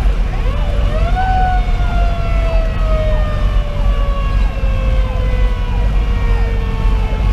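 Federal Q2B mechanical siren on a fire engine winding up about half a second in, then coasting down slowly in pitch. The heavy low rumble of the truck's Detroit Series 60 diesel and the road runs under it.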